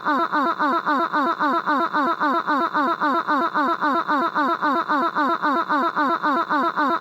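A looped cartoon vocal sound effect: identical short syllables, each falling in pitch, repeated evenly about four or five times a second, then cutting off suddenly near the end.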